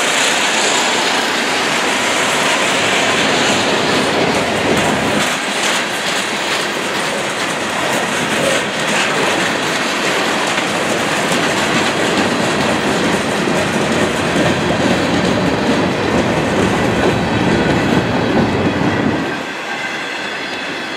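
Freight train hopper cars rolling past close by, their steel wheels clattering on the rails. The noise drops off sharply about nineteen seconds in as the last car goes by.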